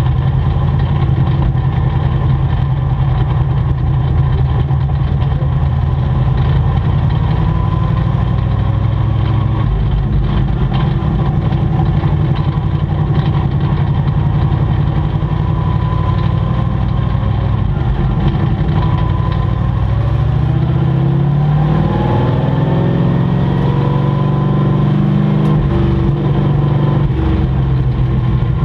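Sport-truck racing engines running steadily. About two-thirds of the way through, an engine note rises as a truck accelerates.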